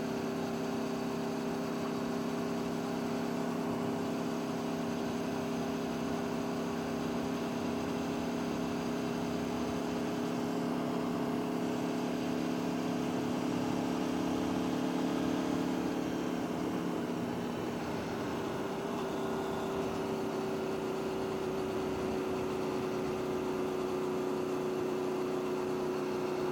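A vehicle engine idling steadily, its pitch and level nearly constant, with a slight change in its tone about two-thirds of the way through.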